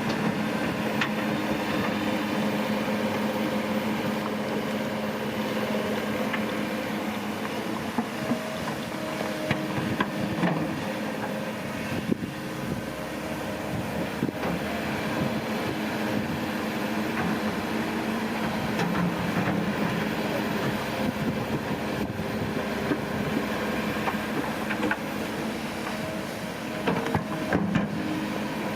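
Heavy diesel earth-moving machinery running steadily under load, with scattered sharp knocks and clanks.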